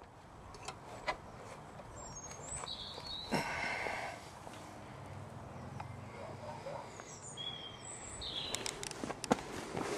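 Outdoor ambience with birds chirping, about three seconds in and again near the end, plus light rustling and a few sharp clicks near the end.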